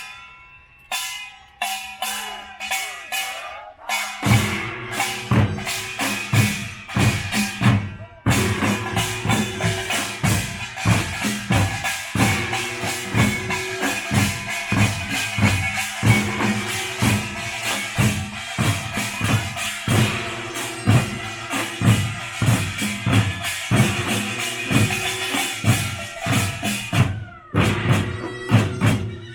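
Korean pungmul (nongak) percussion band playing: drums and clanging gongs. A few scattered strikes come first, then the full band comes in with rapid, driving strokes about four seconds in, easing briefly near the end.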